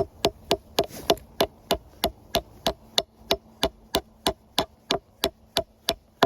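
A hand tool striking wood in a fast, even rhythm, about three blows a second, slowing slightly: work on the poles of a wooden sawbuck.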